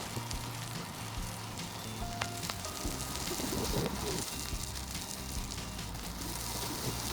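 Background music over a steady crackling hiss of a bicycle riding along a trail.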